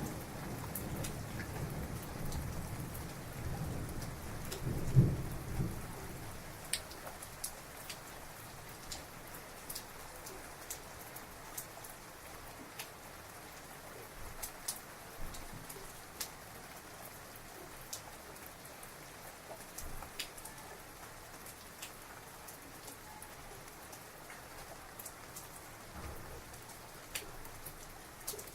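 Rain falling steadily, with sharp individual drops ticking on a surface. A thunder rumble during the first few seconds peaks about five seconds in and dies away, and the rain eases slightly after it.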